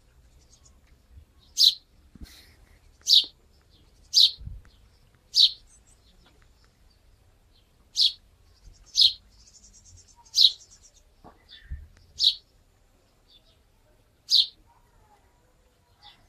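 A bird chirping: a single short, high chirp repeated about nine times, every one to two seconds.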